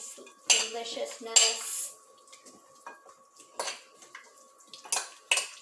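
A fork clinking and scraping against a mixing bowl as veggie chicken strips are tossed in a thick yogurt marinade. There is a quick run of clatter in the first two seconds, then a few single clinks.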